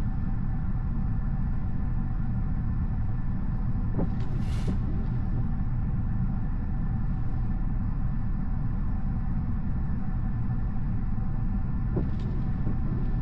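Steady low rumble of tyre and road noise inside a moving Tesla's cabin, with no engine sound, and a couple of faint ticks about four seconds in and near the end.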